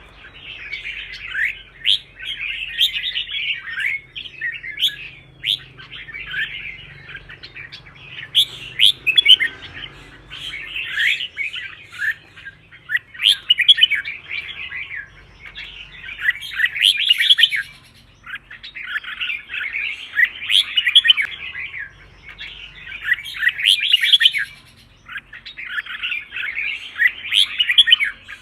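Red-whiskered bulbul singing: bright chirpy song phrases of a second or two each, repeated over and over with short gaps between them.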